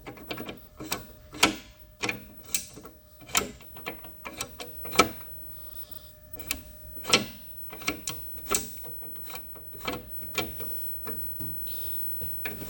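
JFMT lathe apron's feed-selector mechanism being worked by hand: a run of irregular metallic clicks and clunks as the lever's spring-loaded ball detent clicks into its positions and the parts engage.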